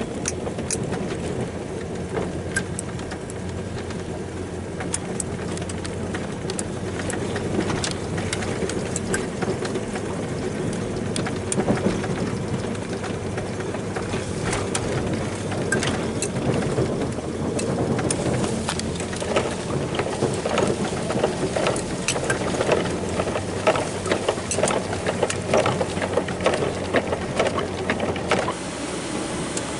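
Truck engine running steadily while clearing snow, with many sharp clicks and knocks over it that come thicker in the second half; the engine note changes near the end.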